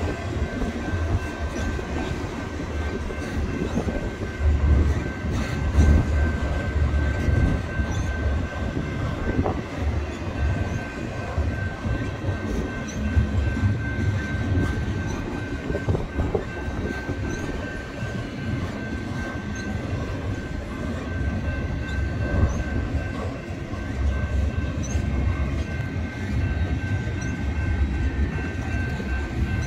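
Double-stack container cars of a freight train rolling past, a continuous rumble of wheels on rail with a steady high squeal running through it.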